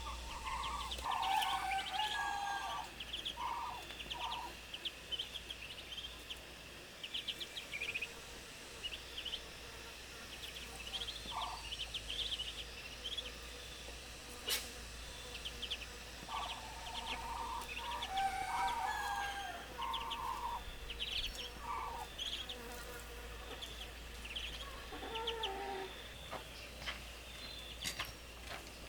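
Farm poultry calling: short clucking calls in clusters near the start and again in the middle, over a steady run of quick, high peeping chirps.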